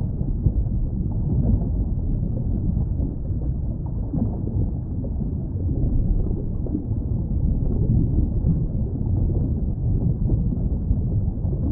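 Steady low rumbling noise, the kind made by wind buffeting a microphone outdoors, with no animal calls heard.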